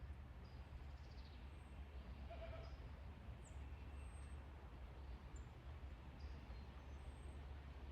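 A single faint bleat from a farm animal about two and a half seconds in, over a steady low hum and scattered faint high chirps.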